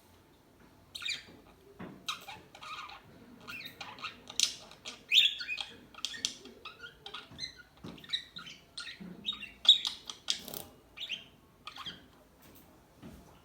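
Parakeets chirping and squawking in quick, irregular calls, starting about a second in.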